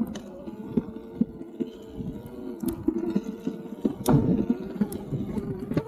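Electric dirt bike's motor whining steadily at low speed over a low rumble, with a few sharp clacks from the bike, the loudest about four seconds in.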